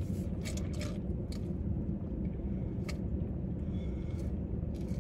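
Close-up chewing and biting of food, with a few short crisp clicks, over a steady low rumble.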